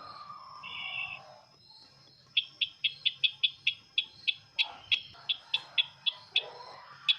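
Bird call of the sisintar ladang, played as a trapping lure: a short lower warbling note, then a fast run of sharp, high chips, about five a second.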